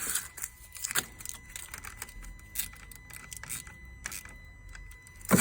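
Sharp metallic clicks and clinks of hand tools and a battery terminal clamp as the car battery is reconnected, ending in a louder knock.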